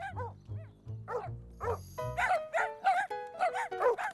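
A cartoon dog barking over and over in quick yaps, over background music with a low bass line.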